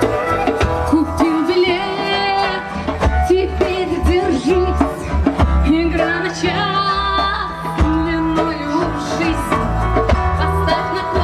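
Folk-rock band playing live: drums and bass keeping a steady beat under guitar, with a wavering lead melody over the top.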